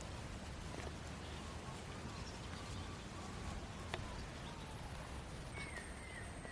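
Outdoor ambience by the water: short, faint chirping animal calls repeat over a low rumble, with one sharp click about four seconds in.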